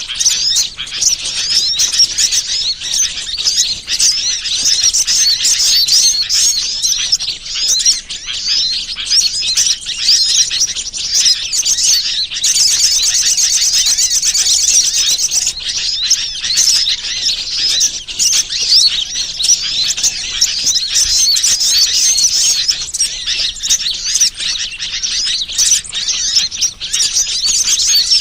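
Dense, continuous chorus of rapid, high-pitched chirps and twitters from small birds: a bird-lure call recording played to draw wild birds in. About twelve seconds in, the chirping turns into a more even, fast trill for a few seconds.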